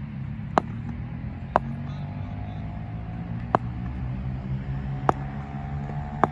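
Five sharp knocks of a cricket ball, irregularly spaced about one to two seconds apart, each with a brief ring, over a steady low hum.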